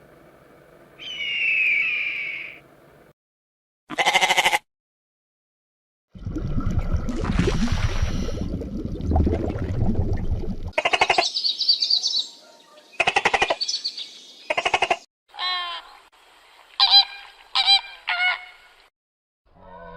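A string of different animal calls cut one after another, each starting and stopping abruptly. Near the end come several short honking calls.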